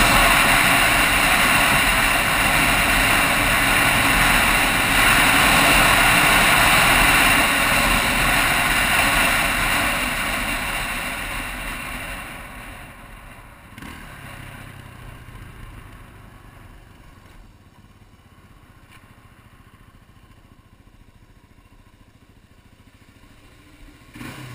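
Yamaha TT-R250 single-cylinder four-stroke dirt bike running, recorded through an on-board GoPro, loud for the first ten seconds and then fading away over a few seconds to a faint low hum.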